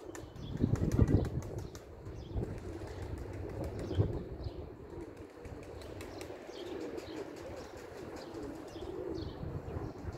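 Nikolaev pigeons' wings flapping and clapping, with wind buffeting the microphone in loud surges about a second in and again around four seconds; faint bird chirps sound now and then.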